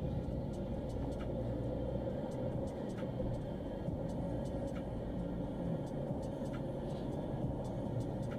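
Nissan Qashqai driving on a rough dirt track: a steady rumble of engine and tyres, with scattered light clicks throughout.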